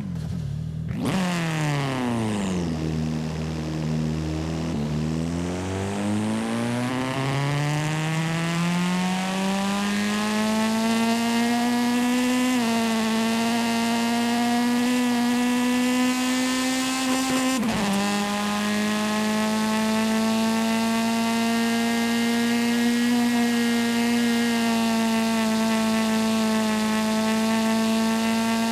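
Simulated car engine in a driving video game. It slows and drops in pitch, then revs steadily upward under acceleration, with two gear changes that each briefly drop the pitch, and settles into a steady cruising drone.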